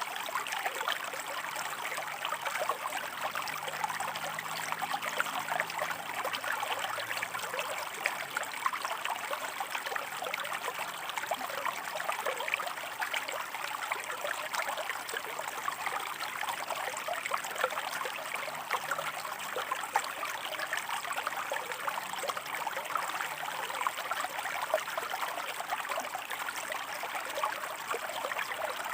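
A shallow stream running over rocks: a steady babble with many small splashes and trickles.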